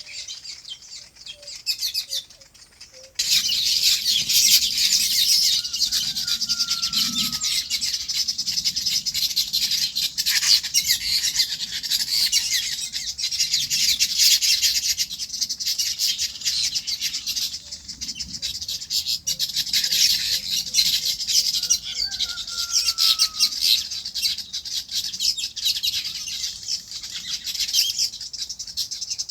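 A dense chorus of many small birds chirping all at once, becoming suddenly much louder about three seconds in. A short falling call and a quick row of low, evenly spaced pips stand out twice above the chatter.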